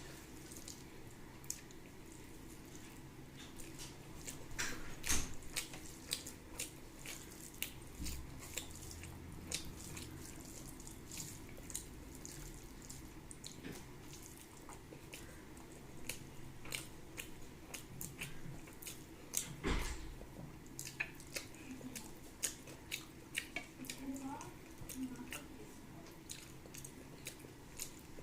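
Wet chewing and many short lip smacks and mouth clicks close to the microphone: a person eating a meal of rice and curry. Two louder thumps stand out, one about five seconds in and one a little before twenty seconds.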